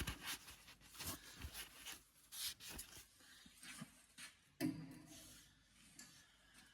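Faint, intermittent cloth-on-metal rubbing: the bare metal of a tractor engine block being wiped clean with solvent cleaner to prepare it for a dye penetrant crack test. There is a short louder sound about four and a half seconds in.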